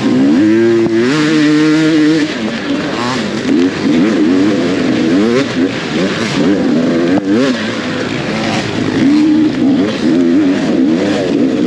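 Off-road motorcycle engine running hard, its pitch climbing and dropping back again and again as the throttle is worked.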